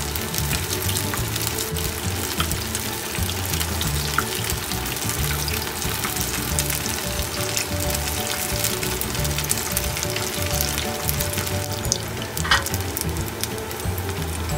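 Onion kakiage (flour-battered sliced onion) deep-frying in canola oil in a frying pan: a steady, dense crackling sizzle of batter in hot oil, with one sharper click near the end.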